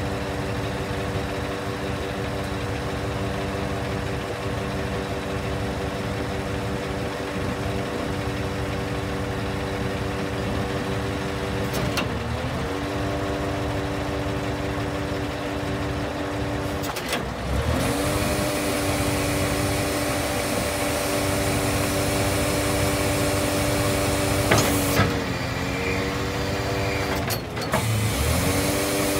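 Scania R580 V8 diesel engine running steadily at idle. Its pitch dips briefly and recovers four times, each dip with a sharp click. From about halfway it runs a little faster and louder, with a hiss added.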